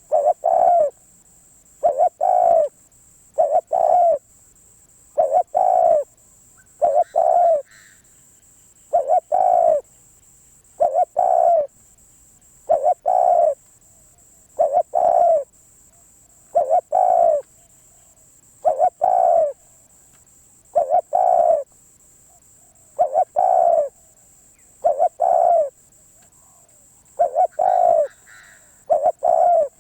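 Spotted dove cooing over and over: a short two-part coo about every two seconds.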